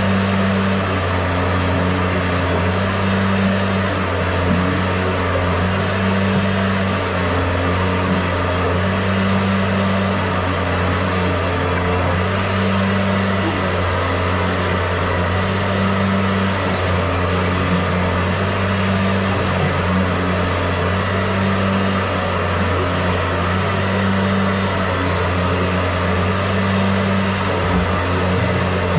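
A motor running steadily with a low hum and a slow, regular swell in its tone every second or two.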